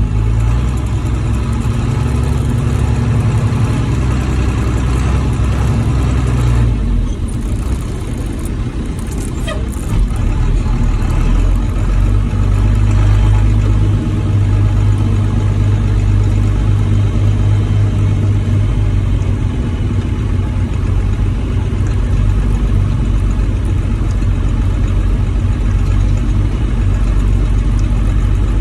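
Old Ford dump truck's engine running while driving. It eases off about seven seconds in and picks up again around ten seconds.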